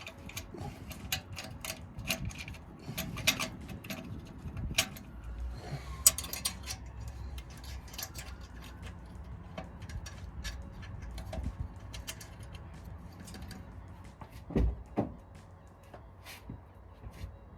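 Scattered light clicks and knocks of hands working on the exhaust valve actuator and its metal mounting plate, with a louder knock about six seconds in and two dull thumps near the end.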